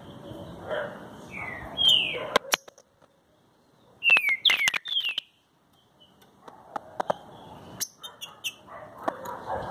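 Green-winged saltator (trinca-ferro) singing: loud whistled notes that slide downward, in one phrase about two seconds in and another about four to five seconds in, with sharp clicks between.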